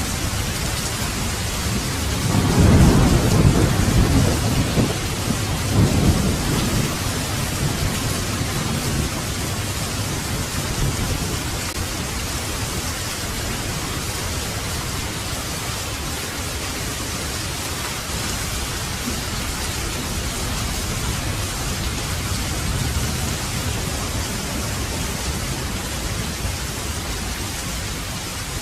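Heavy rain falling steadily, with a roll of thunder rumbling low about two seconds in and fading out over the next five seconds or so.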